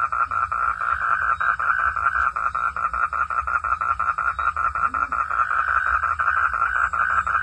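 Frog calling in a rapid, steady train of pulses, about nine a second, over a low rumble.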